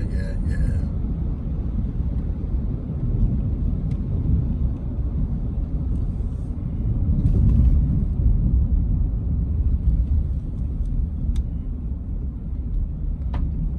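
Steady low road rumble of a vehicle driving, heard from inside the cabin, with a couple of sharp clicks near the end.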